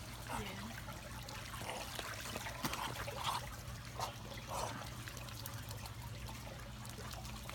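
Pet birds feeding from a dish of peas, apple and earthworms: faint, scattered pecking and rustling noises with a soft watery dribbling sound.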